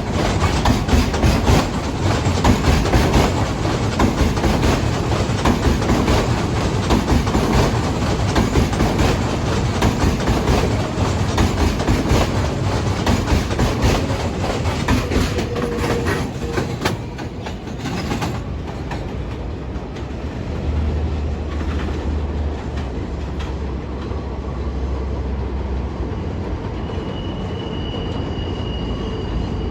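New York City subway train running through the station, its wheels clacking rapidly over the rail joints, then dying away about eighteen seconds in, leaving a low steady hum.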